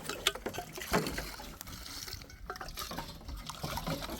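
Liquid being stirred and splashed in a pot, with irregular small knocks and clicks of utensils.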